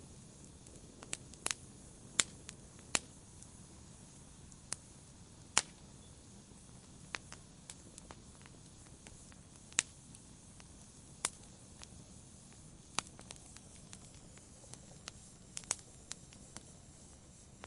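Wood fire in a fireplace crackling: sharp pops and snaps at irregular intervals, about one a second, over a soft steady rush of the flames.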